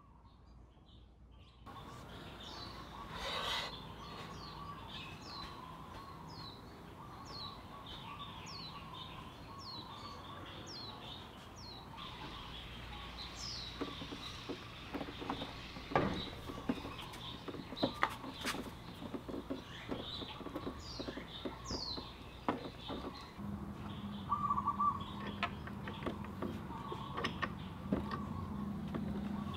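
Small birds chirping, a run of short falling chirps through the first half. In the second half come sharp clicks and knocks as the scooter's front wheel, axle and spacer are handled and fitted.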